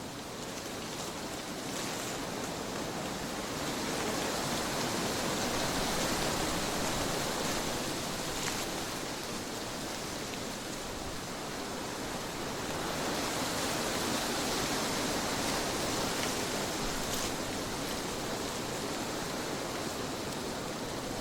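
Trade winds blowing steadily as a rushing noise that swells twice into stronger gusts and eases between them.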